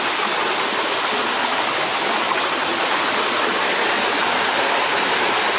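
Waterfall's falling water rushing, a loud, steady, unbroken noise.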